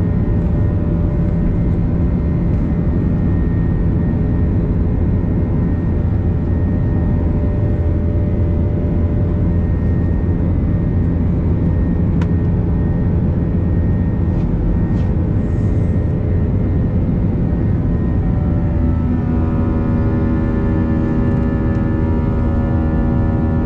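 Airbus A321 jet engines heard from inside the cabin: a steady, loud rumble with a set of steady tones. About 19 seconds in, the engine tones change to a new evenly spaced set, as with a change in thrust.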